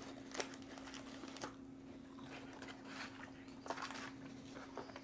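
Quiet chewing of a mouthful of fried chicken, with scattered small clicks and rustles from handling plastic sauce cups and paper wrappers, over a faint steady hum.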